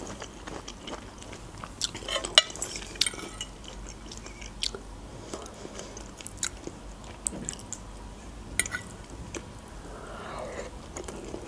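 Close-miked chewing and mouth sounds of someone eating khinkal, soft boiled dough with lamb, broken by scattered sharp clicks from a metal fork against a plate.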